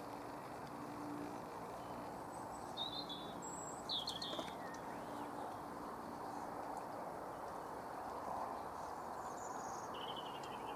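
A few short, high bird chirps, in quick little clusters about 3 and 4 seconds in and again near the end, over a steady background hiss.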